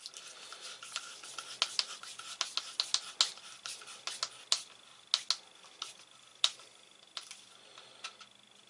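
Irregular light clicks and taps of a screwdriver and plastic drain fittings being handled, many in quick succession in the first five seconds, then a few scattered clicks, over a faint steady high whine.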